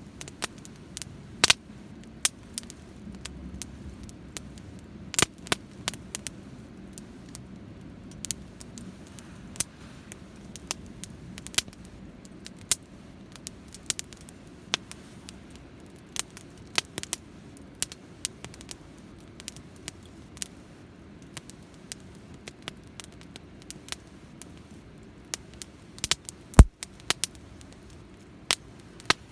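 Wood campfire crackling, with irregular sharp pops and snaps over a low steady rush of the flames, and one much louder pop near the end.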